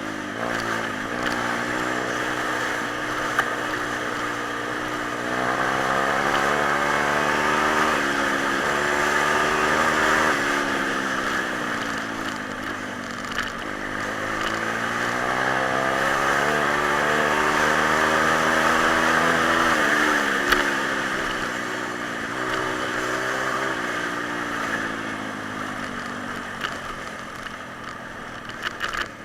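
Pit bike's single-cylinder four-stroke engine being ridden, its revs climbing over several seconds, dropping and falling away, then building again, twice.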